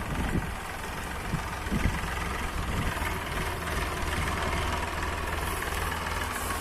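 Tractor diesel engine running steadily with a low drone.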